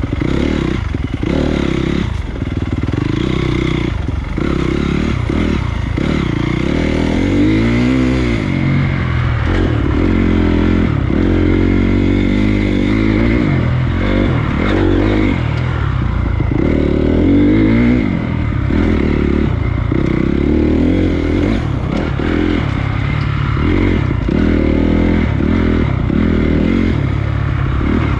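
Honda CRF250 dirt bike's single-cylinder four-stroke engine on the move, its pitch rising and falling again and again as the throttle opens and closes, with clattering from the bike over rough ground.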